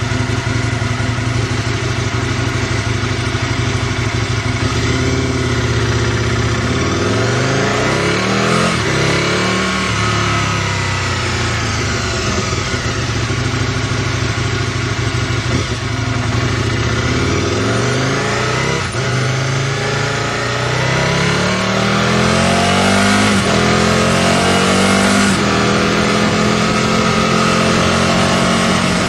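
Aprilia RSV Mille's V-twin engine through a Micron aftermarket exhaust, under way: it runs steadily at first, then after several seconds accelerates again and again, its pitch climbing and dropping back at each gear change.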